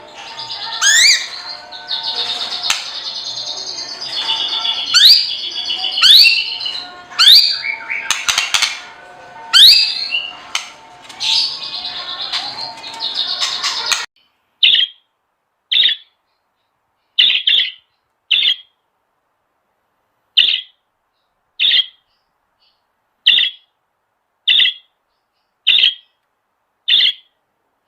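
Birds chirping and whistling with quick rising notes for about fourteen seconds. Then, after an abrupt cut, a bird gives short single calls roughly once a second over silence.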